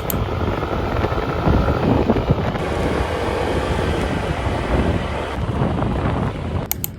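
Wind buffeting a phone microphone, a loud uneven rumble, with a couple of sharp clicks near the end.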